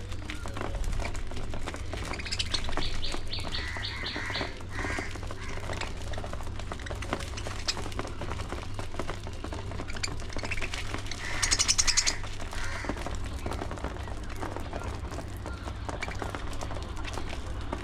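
Budgerigars chirping and chattering, with a louder burst of rapid calls about two-thirds of the way through, over a steady low rumble.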